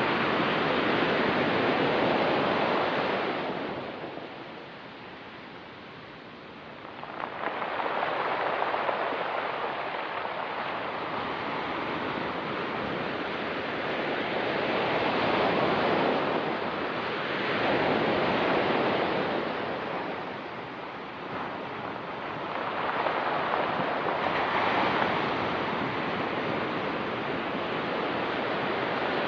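Ocean surf breaking and washing up a rocky beach, coming in repeated swells: a lull about four seconds in, then the next wave surges in around seven seconds, with more waves following.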